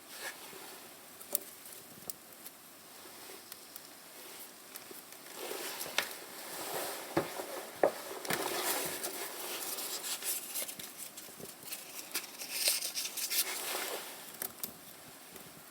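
Irregular rustling and sharp crackling clicks from a fireplace being lit with paper and thin wood chips. The clicks come thickest in the middle stretch, as the damp kindling struggles to catch.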